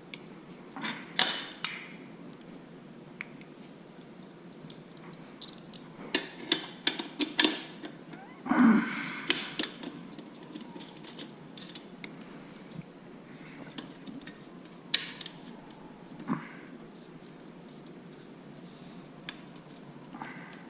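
Scattered metallic clicks, clinks and scrapes of hand work fitting a motorcycle slip-on exhaust, the loudest a scrape of about a second just before halfway.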